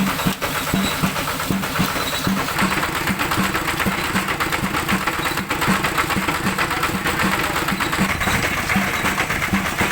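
Kubota tractor engine running steadily, with a fast, even mechanical beat throughout.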